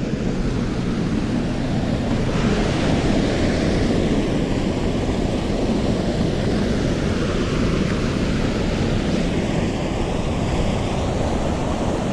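Mountain stream water rushing over rocks, a steady wash of noise with no breaks.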